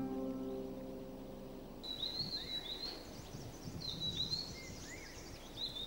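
The last held notes of plucked-string music stop abruptly about two seconds in. Then come wild birds' short, high chirps, some rising and some falling, repeated over a faint outdoor background.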